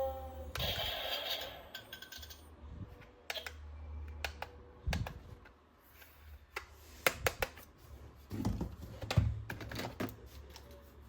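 Hard plastic toy weapon parts being handled: irregular sharp clicks and knocks, with a brief rustle about half a second in.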